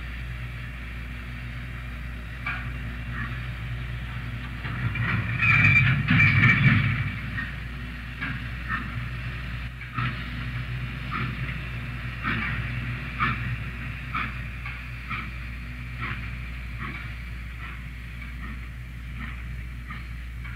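Train moving in a steam-era railyard, heard on an old tape recording: a string of irregular clanks and knocks from the wheels and cars, about one a second, with a louder burst lasting about two seconds starting around five seconds in. A steady low hum runs underneath.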